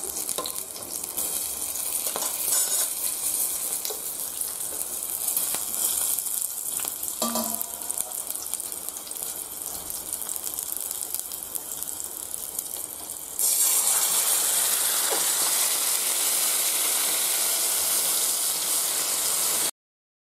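Hot oil sizzling with whole black peppercorns and green chillies in an aluminium kadhai, a steady hiss with small crackles. About 13 seconds in, the sizzle jumps louder and fuller as yogurt-marinated chicken goes into the hot oil. It cuts off abruptly near the end.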